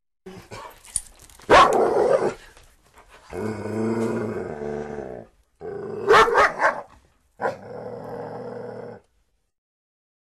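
A dog growling and barking in several separate bouts: a sharp loud sound about a second and a half in, a drawn-out growl around three seconds in, then a quick cluster of barks about six seconds in, followed by another shorter growl.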